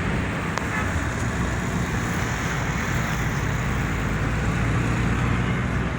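Steady road traffic noise, an even rumble with no distinct horns or passing events.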